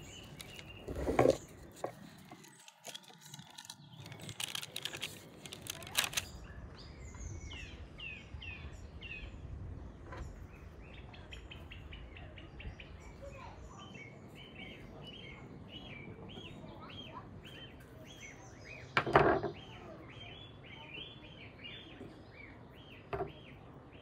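Small birds chirping in quick repeated runs in the background, over a low steady hum. A few sharp knocks from kitchen handling break in, the loudest about two-thirds of the way through.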